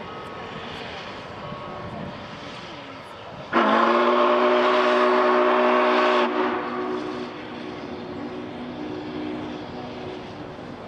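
Whistle of the SP&S 700 steam locomotive blowing one long blast, several notes sounding together as a chord. It starts suddenly about three and a half seconds in and holds for nearly three seconds, then fainter notes linger for a few seconds more.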